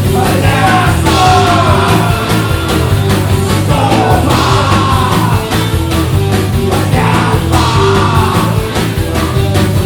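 Live rock band playing loudly: drums and a low bass line under a high, wavering lead line that bends in pitch.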